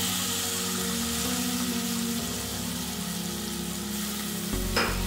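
Chopped tomatoes frying in hot oil in a stainless steel pan with corn and onions: a steady sizzle.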